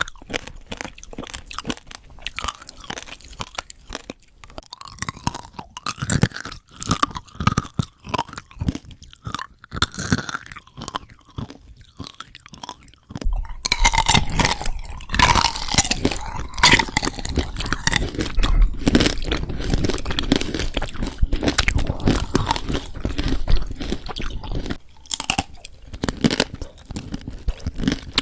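Close-miked eating: crunchy bites and chewing of crisp food. About halfway through the sound turns louder and denser, with more low rumble.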